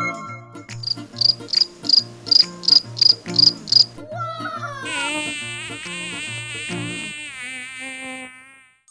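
A cricket chirping in short high pulses, about three a second, then a flying insect buzzing with a wavering pitch for about three seconds. Soft background music runs underneath.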